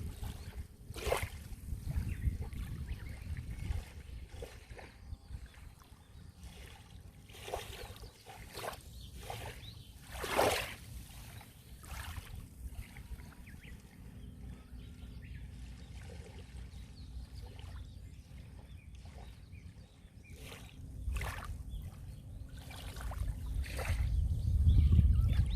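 Sea waves washing onto the shore: a steady low rumble of surf with scattered splashes, the largest about ten seconds in, and a bigger wave building near the end.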